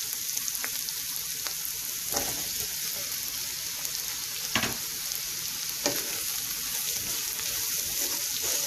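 Vegetables sizzling in ghee in a pan with a steady hiss, stirred with a wooden spatula that knocks and scrapes against the pan a few times, loudest about halfway through.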